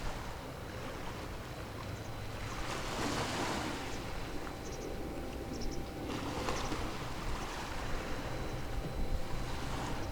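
Waves washing in, with broad rushes that swell around three seconds in and again around six to seven seconds, over a steady low rumble of wind on the microphone.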